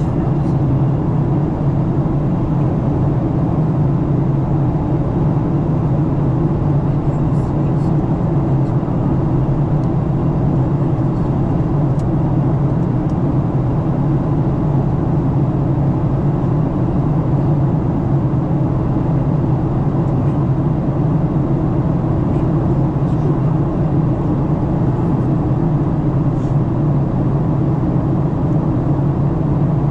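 Steady low rumble of airflow and the CFM56-7B engines heard inside the cabin of a Boeing 737-900 on approach.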